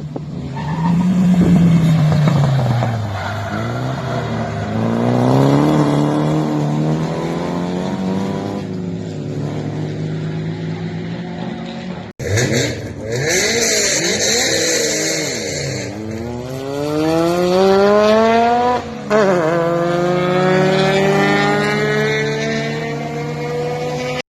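Turbocharged SR20DET four-cylinder engine in a Toyota Celica TA22 under hard acceleration, the revs rising and falling through the gears, with a brief break about halfway. In the second half the revs climb steeply, with a high hiss for a few seconds, then a gear change just before the end is followed by another steady climb.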